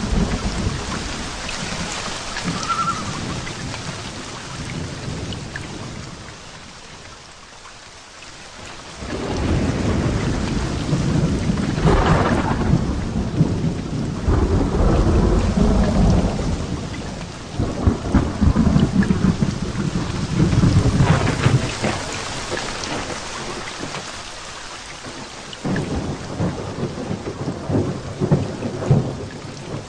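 Heavy rain falling steadily with thunder. After a brief lull, long rolling rumbles of thunder with crackles build up and carry on for several seconds, and another rumble comes near the end.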